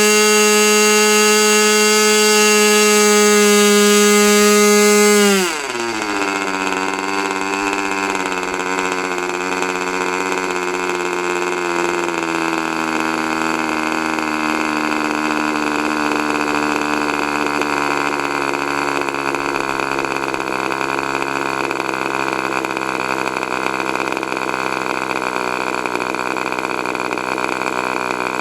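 K&B .40 R/C two-stroke glow engine running at a high, steady pitch, then throttled back about five and a half seconds in. It drops quickly to a much lower idle that sags slightly further before holding steady.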